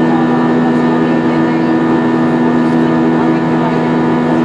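Airbus A320 jet engines running steadily in the climb, heard inside the passenger cabin as a constant drone: a few steady hum tones over an even rush of air.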